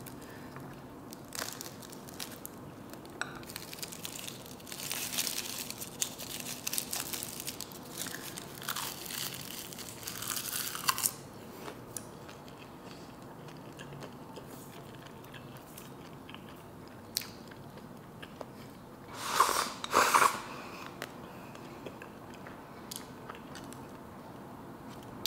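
Close-up chewing of a leaf-wrapped mouthful of natto and rice. There are crackling bites over roughly the first ten seconds, then quieter chewing, with two short louder sounds just before twenty seconds in.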